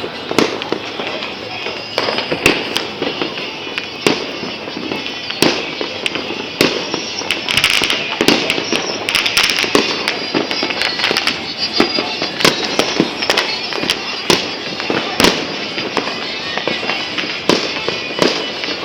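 Fireworks and firecrackers going off all around, many irregular sharp bangs over a constant crackle, with a brighter crackling stretch about eight seconds in.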